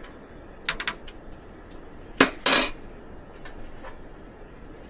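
Metal cookware clinking: a cooking utensil and pot knocking together, with a short rattle about a second in, then two sharp clanks a little after two seconds.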